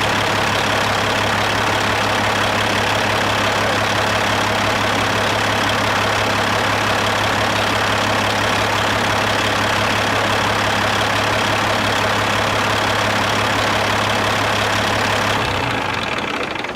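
Caterpillar 3406E inline-six diesel idling steadily during a fuel-pressure test, then winding down and stopping near the end.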